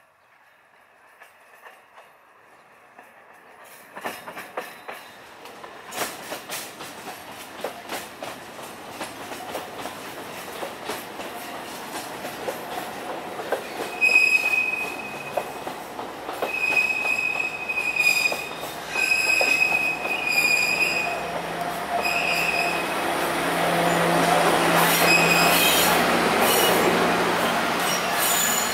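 A train approaching and growing steadily louder, its wheels clicking rhythmically over the rail joints. A high wheel squeal starts about halfway and comes back in repeated short stretches as the train draws close.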